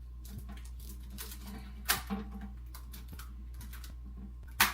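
Rubber bands being stretched and snapped one by one around a watermelon that is already bound with nearly 600 of them: a run of small clicks, with two sharp snaps, one about two seconds in and one near the end.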